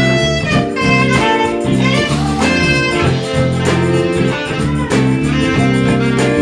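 Live band playing an instrumental passage of a soul-jazz song, with no vocal line.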